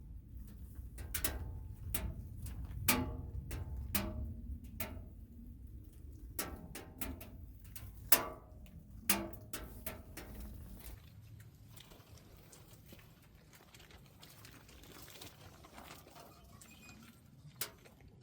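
Firewood crackling and popping as it burns in a double-combustion camping wood stove: irregular sharp pops, a few of them loud, over a low rumble that drops away about eleven seconds in, after which only a faint crackle remains.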